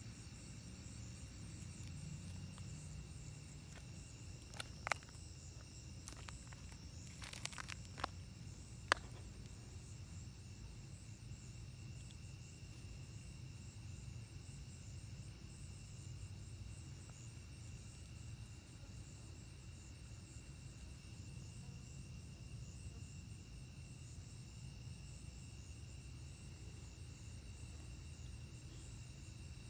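Night-time chorus of crickets and other insects, a steady high trill over a low rumble. A few sharp clicks sound between about four and nine seconds in.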